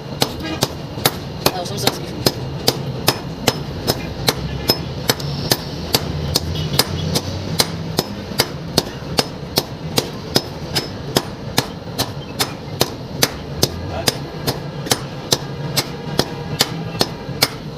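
Hammer blows on hot iron on an anvil, forging a pickaxe head: a steady, even rhythm of ringing strikes, loud blows alternating with lighter taps.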